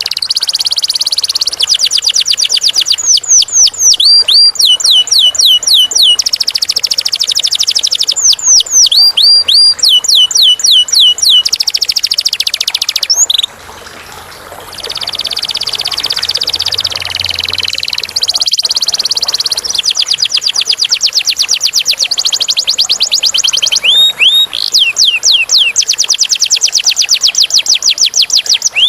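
Domestic canary singing a long, loud song of fast rolling trills and runs of repeated down-sweeping notes. It softens briefly about halfway through, and there is a single sharp click a few seconds later.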